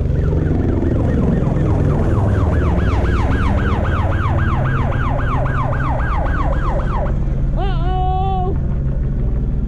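Emergency vehicle siren in a rapid yelp, its pitch sweeping several times a second for about five seconds, then a short steady horn-like tone. A steady low engine drone runs underneath.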